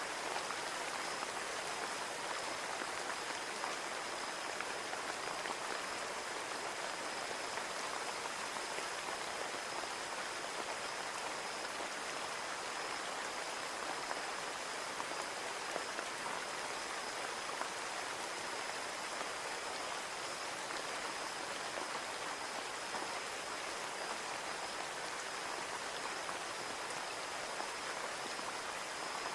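Steady rain pattering on a window, a dense even hiss of drops with many small ticks, and a faint steady high tone.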